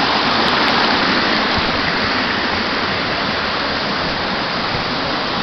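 Waterfall and creek water rushing, a loud steady roar of falling water close to the microphone.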